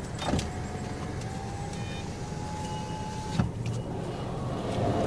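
Car's power window motor whining steadily for about three seconds, ending in a thump as the glass seats, over the low hum of the idling engine heard inside the cabin.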